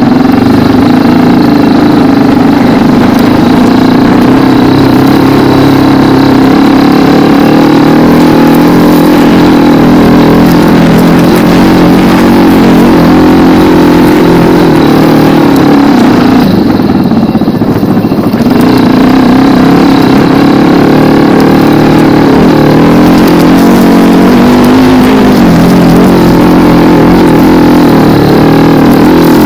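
Racer 250 K2 dirt bike's single-cylinder four-stroke 172FMM engine running loud under riding, its revs wavering up and down, with a brief easing off a little past halfway.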